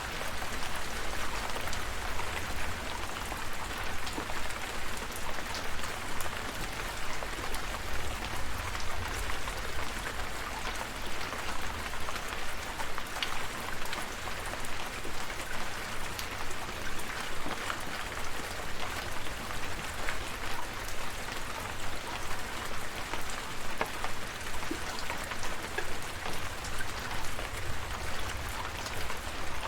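Steady rain falling, with individual drops ticking throughout over a low rumble.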